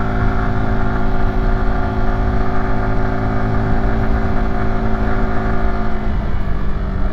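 Yamaha YZF-R125's 125 cc single-cylinder engine pulling steadily under load on a climb, heard from the rider's seat with wind rumble on the microphone. The engine note holds nearly steady, then changes pitch slightly about six seconds in.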